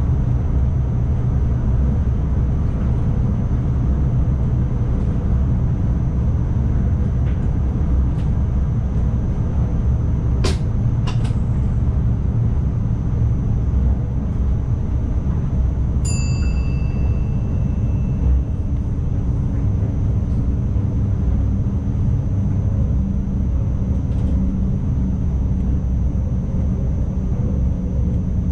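ICMm electric multiple unit running along the line, heard from the driver's cab: a steady low rumble of the train in motion with a faint high whine. There are two sharp clicks about ten seconds in and a short chime about sixteen seconds in.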